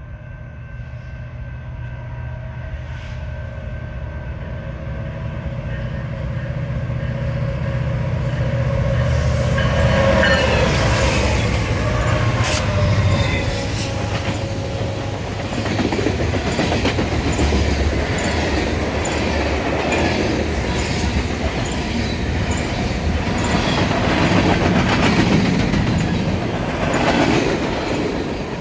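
BNSF manifest freight train led by three diesel locomotives approaching, the engine sound growing louder over the first ten seconds. The locomotives then pass and the freight cars roll by with a steady rumble and regular clicking of wheels over the rail joints.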